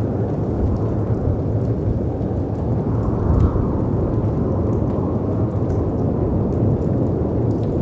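Steady deep rumble of howling wind and sea waves crashing, swelling briefly about three seconds in, with faint fireplace crackles over it.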